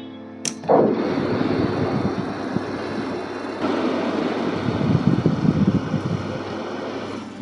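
A sharp click, then a homemade fan driven by a 775 DC motor running, its spinning blades pushing air over the microphone as a rough, steady rumble that grows stronger about three and a half seconds in.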